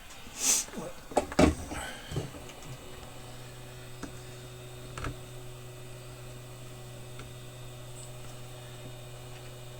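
A brief hiss and a few sharp knocks and clatters of tools being handled on a workbench, then a steady low hum that starts about three seconds in and continues.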